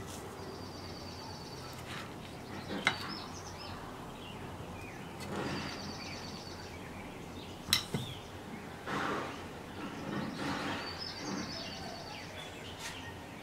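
Small birds chirping in the background in short, high trilled phrases that come back three or four times. Under them, soft rustling as breadcrumbs are pressed onto a battered pepper, with two sharp clicks, one about three seconds in and one near the middle, the loudest sounds.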